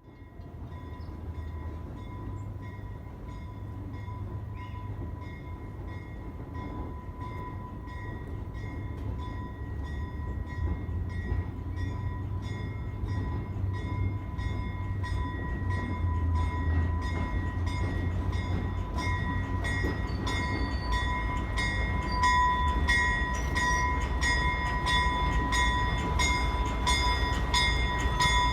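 Alco S-6 diesel switcher locomotive running, its low engine rumble growing steadily louder as it approaches. A steady ringing tone and regular clicks run over it.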